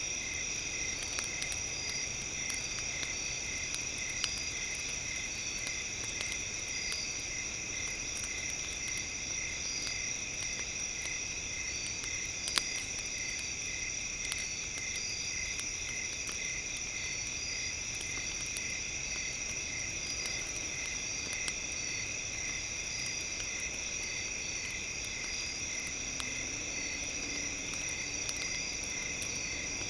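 Campfire crackling with scattered small pops, one sharper pop near the middle, under a steady layer of high-pitched tones, one of them pulsing evenly about twice a second, much like crickets chirping.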